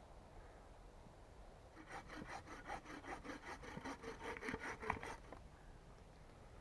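Hand saw cutting through wood, about three seconds of quick, even back-and-forth strokes that start about two seconds in and stop near the end.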